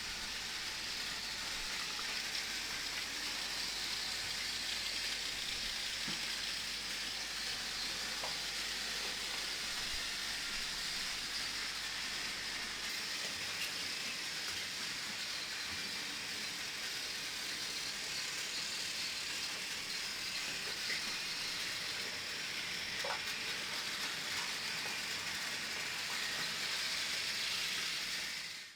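Plarail battery-powered toy trains running on plastic track: a steady high whirring hiss from their small motors and gears, with a few faint clicks from the wheels on the track joints.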